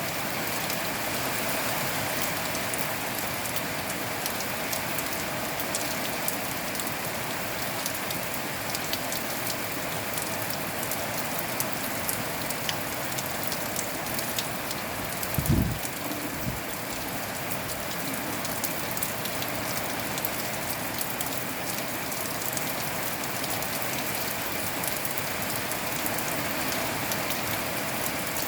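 Steady rain falling, with many single drops ticking on a surface. A brief low thump about halfway through.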